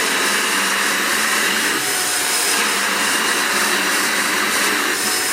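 AGARO Regal Plus 2-in-1 upright vacuum cleaner running steadily under suction, an even rushing whine of its motor and air intake.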